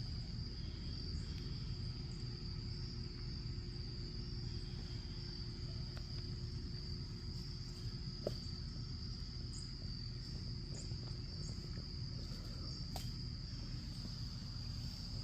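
Insects trilling steadily at one high pitch, over a low rumble and a few faint clicks.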